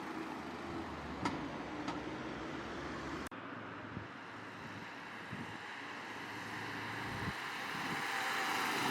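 Car engines and tyre noise on the road, with no standout acceleration; the sound cuts off abruptly about a third of the way in and picks up again, then a car grows louder toward the end as it approaches.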